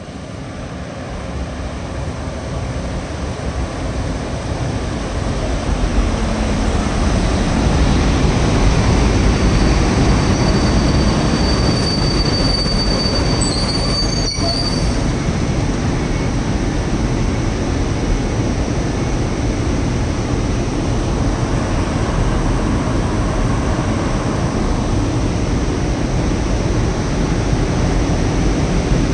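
Locomotive-hauled PKP Intercity passenger train pulling into the platform. Its rumble grows over the first few seconds, then the coaches roll past close by with a steady rumble. About halfway through, a thin high squeal sounds for a couple of seconds.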